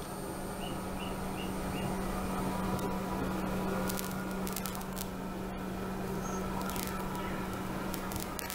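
Small quadcopter drone in flight, its propellers giving a steady buzzing hum, with four faint short high chirps about a second in.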